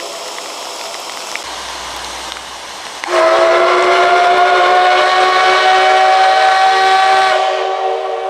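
Steam locomotive whistle, the SL Ginga's C58 239, sounding one long blast about three seconds in. It is a chord of several notes at once, rising slightly in pitch and held for about four seconds before the upper notes die away.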